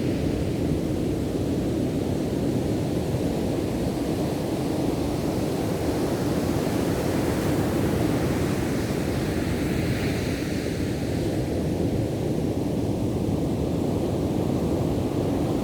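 Ocean surf: a steady low rumble of waves, with a hissing wash that swells at the start and again about ten seconds in.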